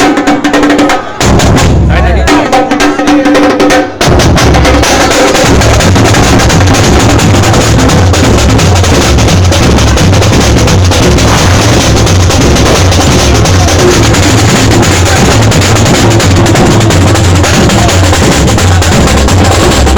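Carnival percussion band playing loudly. A melody with drum hits breaks off about four seconds in, giving way to dense, continuous drumming over a steady bass-drum beat.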